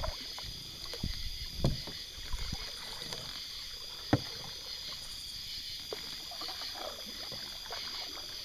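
Canoe paddle strokes in the water, with low thumps and one sharp knock about four seconds in, over a steady high hiss.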